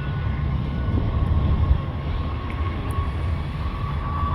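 Military airplane's engines running at a distance: a steady rumble with a thin high whine that rises slightly and gets stronger near the end, as the plane powers up to take off again after touching down.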